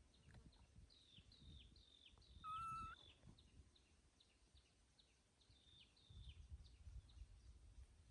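Faint bird chirping: runs of quick, high, down-slurred chirps, two or three a second. About two and a half seconds in comes a louder, steady whistled call lasting half a second, over a low rumble.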